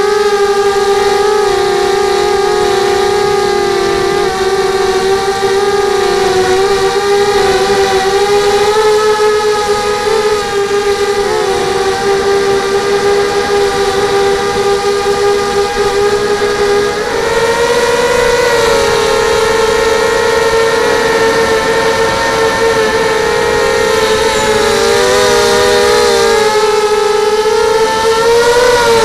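FPV racing quadcopter's electric motors and propellers whining steadily in flight, several close pitches that waver as the throttle changes and step up higher partway through.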